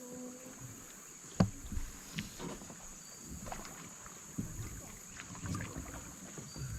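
Small knocks and clatter of handling aboard a kayak, with one sharp knock about a second and a half in, over a steady high-pitched hiss.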